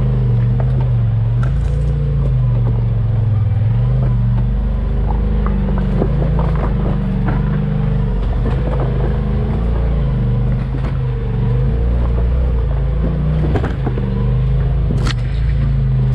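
Off-road vehicle engine running steadily while driving, its pitch wavering a little up and down, with occasional sharp clicks and knocks scattered through.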